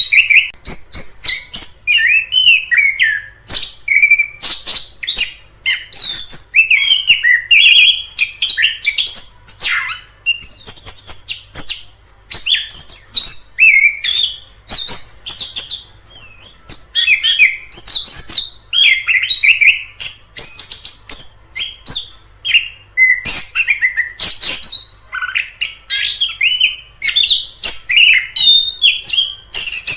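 Orange-headed thrush singing on and on: a fast, varied stream of short whistled notes, sweeps and chatter with only brief gaps.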